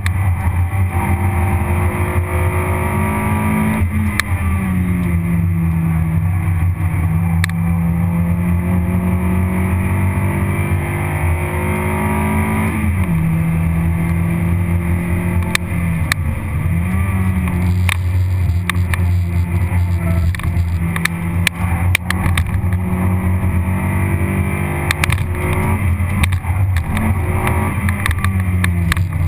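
Toyota Vitz RS engine heard from inside the cabin at racing pace, its pitch climbing under acceleration and dropping back several times as the car shifts and slows for corners, over steady road and wind noise.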